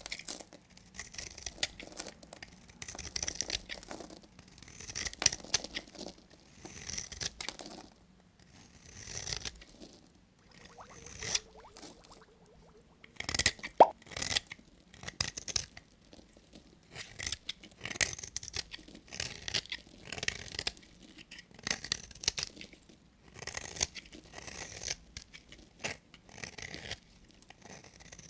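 A blade cutting through bars of soap in a run of crisp, crunchy strokes, one burst every second or two. A single sharp click about halfway through is the loudest moment.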